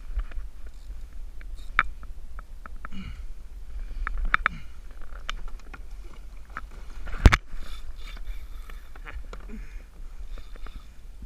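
Scattered knocks and clicks of gear being handled on a fishing kayak, with one sharp, loud knock about seven seconds in, over a steady low rumble of wind and water on the microphone.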